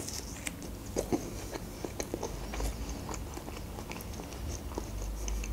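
A person biting and chewing crunchy food, with irregular small crisp crunches several times a second.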